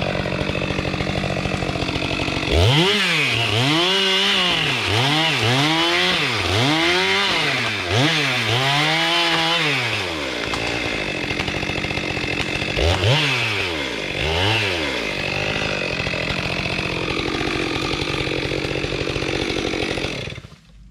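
Chainsaw running in a cut through a standing tree, its engine pitch rising and falling about once a second as the throttle works through the wood, then running more steadily. The saw stops just before the end.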